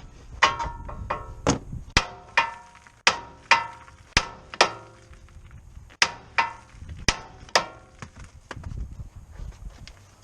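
Irregular sharp metallic clinks and knocks, each ringing briefly: hand tools striking and knocking against metal car parts during a clutch job.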